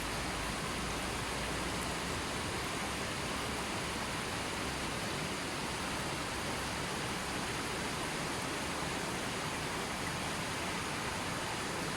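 Steady, even rush of water, with no birdsong, music or separate drops standing out.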